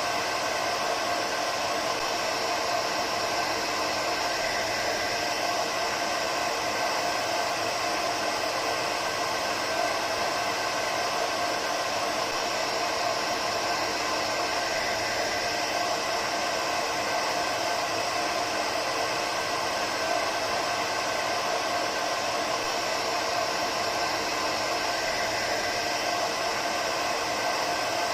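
Hair dryer running continuously at a steady setting: an even rushing hiss of air with a faint steady motor hum, used as white noise to settle a baby to sleep.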